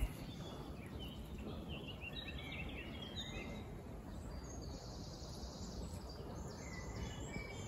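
Small birds chirping and calling over a steady low outdoor rumble, with a short fast trill about halfway through.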